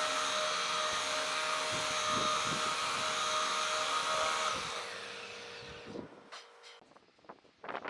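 An electric power tool running with a steady whine, then switched off about four and a half seconds in and spinning down with a falling pitch, followed by a few light knocks.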